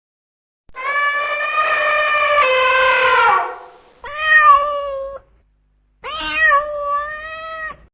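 Domestic cat meowing three times: one long drawn-out meow, then two shorter ones.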